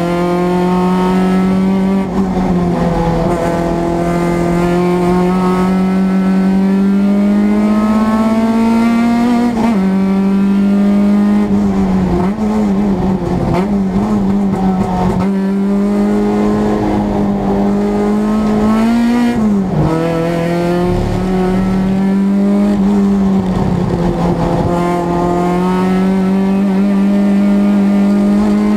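Renault Clio race car's engine heard from inside the cockpit under hard acceleration, its note climbing slowly through each gear and dropping sharply at each upshift, several times. Twice near the middle the note wavers and falls as the car lifts off and shifts down for corners.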